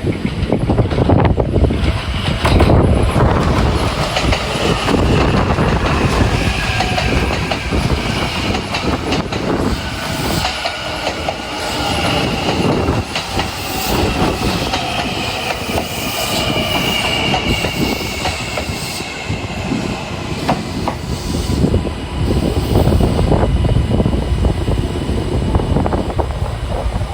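Kintetsu 80000 series eight-car electric limited-express train moving past, its wheels clacking over the rail joints. A high whine slides down in pitch through the middle of the pass.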